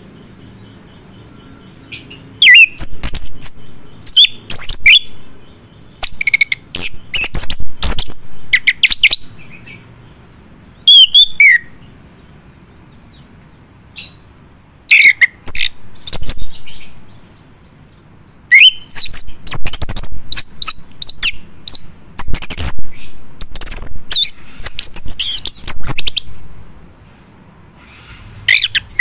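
Male chestnut-capped thrush (anis kembang) singing loudly in bursts of quick, varied phrases of high gliding notes, with pauses of a second or two between bursts.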